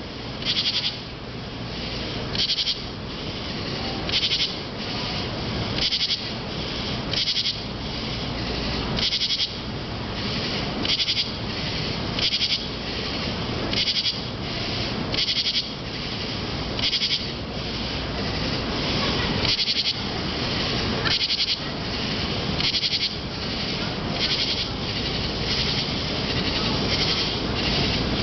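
Nighttime chorus of unseen calling creatures: a loud, raspy, high-pitched call repeats about every one and a half to two seconds over a steady background hum of other callers.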